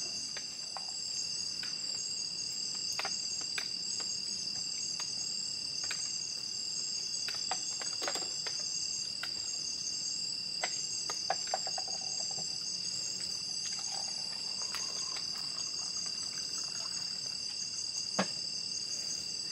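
Steady chorus of forest insects such as crickets, several high-pitched trills running together without a break. Scattered sharp clicks and knocks come through it, the loudest one near the end.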